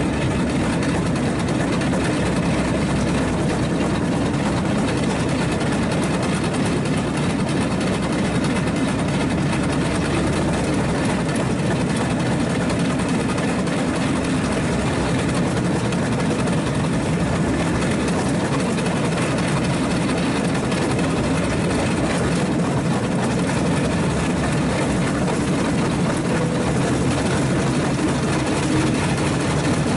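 Steady, continuous engine noise from a moving vehicle, even in level throughout with no distinct knocks or changes.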